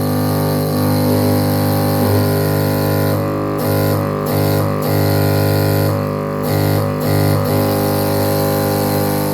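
Electric gas compressor marked 'USA' running with its speed turned up: a loud, steady motor hum that wavers briefly a few times in the middle. It is a very noisy machine.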